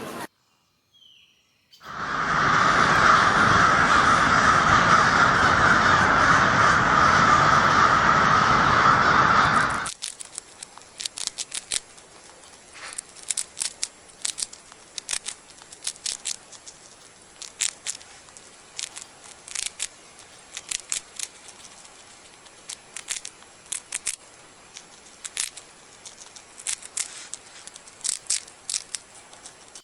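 Crows cawing: a loud, dense din of many overlapping calls for about eight seconds, then, after a cut, scattered short harsh caws at irregular intervals.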